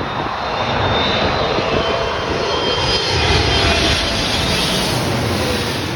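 Boeing 777 freighter with GE90 turbofans passing close by on its landing approach. The jet rush builds to a peak about three seconds in and then fades, while a thin engine whine slides slowly down in pitch.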